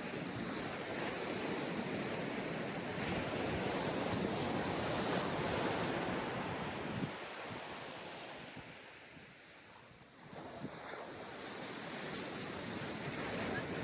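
Ocean surf washing onto a beach, the wash swelling, fading away, then building again as the next wave comes in, with some wind on the microphone.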